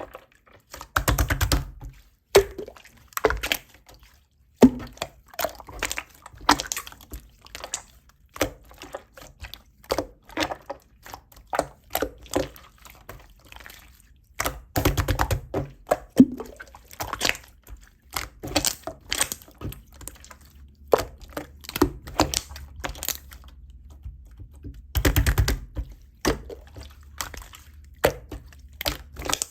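Slime being squished and pressed by hand: a continual run of sticky clicks and small pops, with louder bursts of dense crackling about a second in, midway, and near the end.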